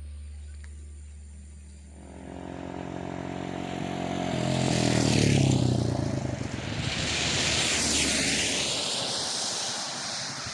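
Engine noise of motor vehicles passing close by, swelling to a peak about five seconds in and again around eight seconds.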